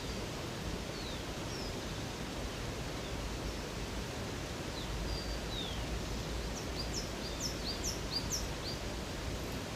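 Steady rush of flowing water with small birds chirping over it: scattered short, high, falling chirps, then a quick run of high notes about seven seconds in.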